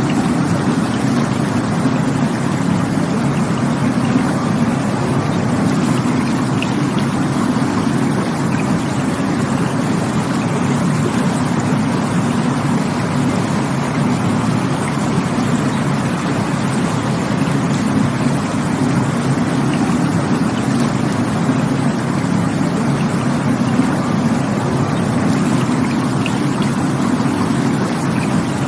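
Rushing water running steadily: a constant low rumble of flowing water with no changes or separate splashes.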